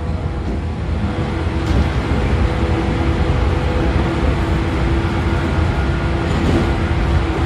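Running sound inside a JR 113 series electric train motor car on the move: a steady rumble of wheels on rail and the MT54 DC series-wound traction motors and gears, with steady humming tones over it.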